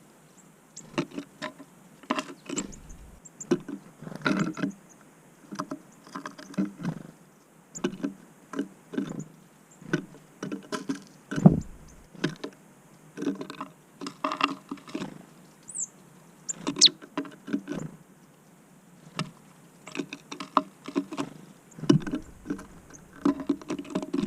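Small birds, tits, pecking and hammering at peanuts in a feeder: irregular clusters of sharp taps and clicks with short pauses between, and a couple of brief high thin notes near the middle.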